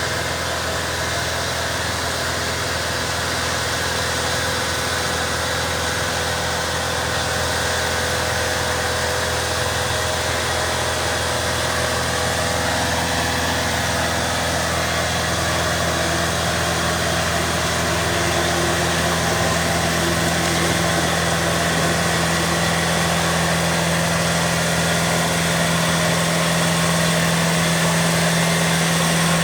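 Boom lift's engine running steadily while the basket is driven down at its faster 'rabbit' speed. The drone is continuous and grows a little stronger in the last few seconds.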